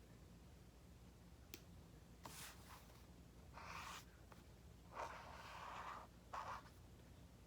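Faint scratching strokes of writing on paper, a handful of short strokes after a single light click, in a quiet small room.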